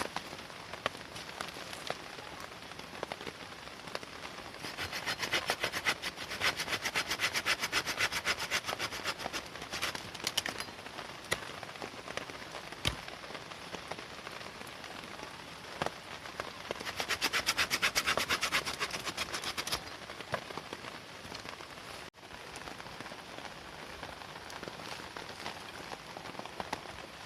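Rain falling steadily with scattered drips, and two stretches of fast, dense ticking that are louder than the rest: one about five seconds in, the other about two-thirds of the way through.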